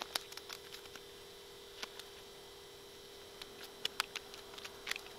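Steady electrical hum with a scatter of short, light clicks and taps, a few of them bunched near the end.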